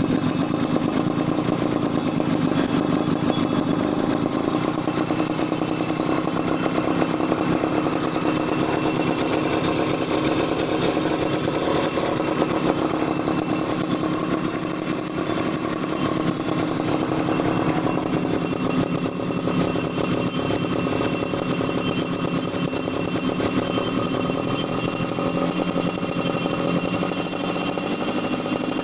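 Yamaha F1ZR two-stroke single-cylinder motorcycle with an aftermarket racing exhaust, running steadily at a fairly constant engine speed.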